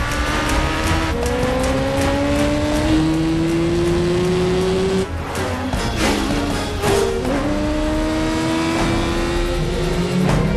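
Sport motorcycle engines accelerating hard, their pitch climbing through each gear and dropping back at the upshifts, with a brief wavering swerve sound about six to seven seconds in, over film score music.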